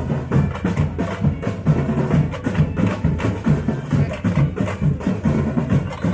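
Live drums playing a fast, steady beat, struck several times a second.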